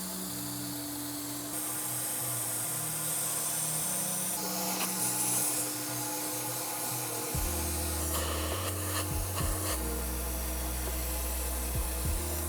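Background music with low held notes, over scrubbing and spraying noises from drill-brushing and extracting cloth carpet and seats.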